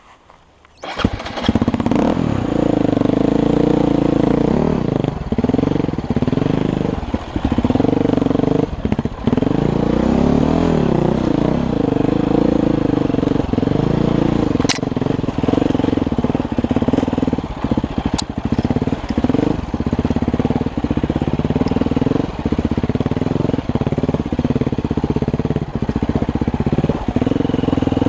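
Vehicle engine running under way, its pitch rising and falling with the throttle and dropping out briefly again and again. It starts suddenly about a second in, and there are two sharp clicks later on.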